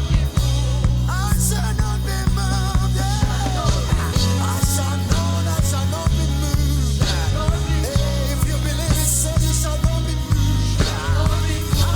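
Live worship band music with drums and a heavy bass, under a lead melody with quick wavering runs.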